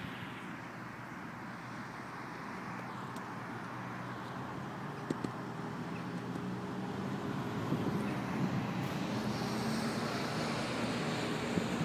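Steady outdoor rumble like road traffic, with a low hum, slowly getting louder, and a few faint clicks.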